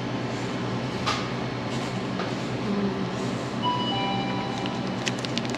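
Steady rumbling noise of a vehicle in motion, with a few faint tones and clicks near the end.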